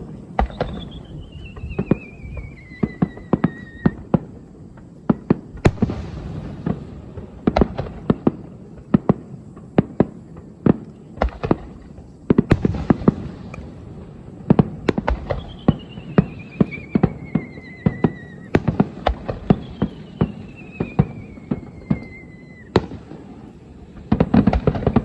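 Aerial fireworks bursting in a rapid, irregular series of sharp bangs and crackles. Three whistles slide down in pitch over about three seconds each, the last ending in a bang.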